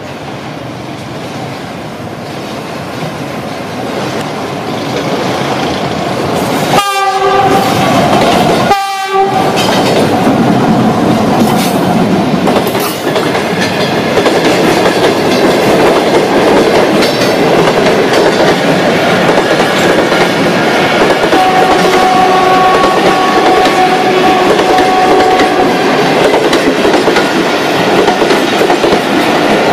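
Karakoram Express passenger train passing close by: the rumble and clickety-clack of its coaches on the rails grows louder over the first several seconds. Its horn sounds one long steady blast of about four seconds, about two-thirds of the way through. The sound cuts out briefly twice, about a quarter of the way in.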